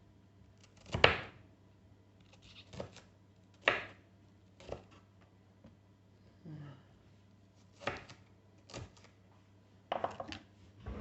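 Small kitchen knife cutting a bell pepper on a chopping board: separate, irregularly spaced knocks of the blade on the board, the loudest about a second in.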